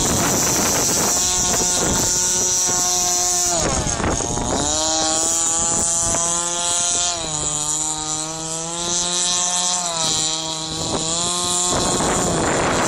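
Gas engine of a 46-inch radio-controlled model boat running on the water, its pitch dipping and rising several times as its speed changes, with wind noise on the microphone. The engine note fades near the end.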